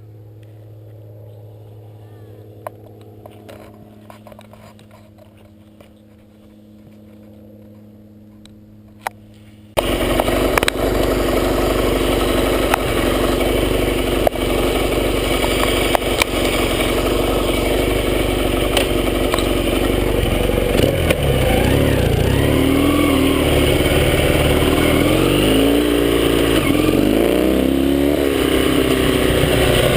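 A quiet, steady low hum with a few clicks. Then, about ten seconds in, the Yamaha XS650's parallel-twin engine cuts in suddenly and loud. In the second half its revs rise and fall several times as the bike is ridden.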